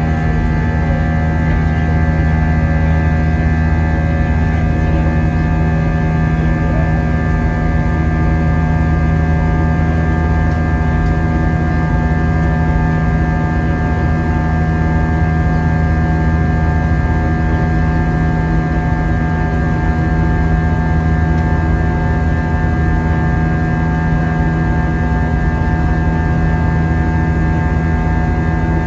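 Airbus A320 cabin noise in flight from a forward seat: a steady drone of engine hum and airflow, with several steady tones, unchanging throughout.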